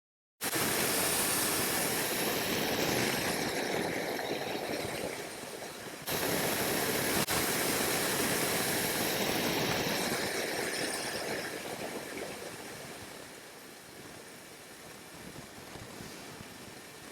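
Wind and road rush over the microphone on a moving motorcycle, a steady noisy hiss with no distinct engine note. It starts suddenly after a brief silence, jumps back up about six seconds in, and gradually quietens over the last few seconds.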